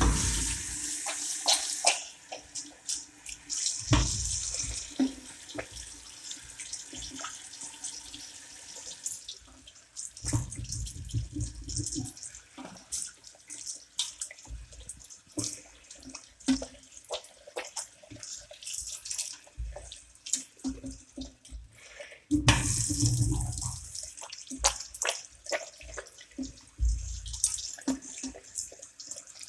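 Water running from a wall-mounted sink's tap in two short spells, one at the start and one about two-thirds through, with clicks, knocks and low thumps of handling in between.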